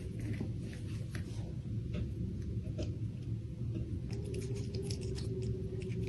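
Scattered soft clicks and light rustling over a steady low hum, the ambient sound of a home animal clip.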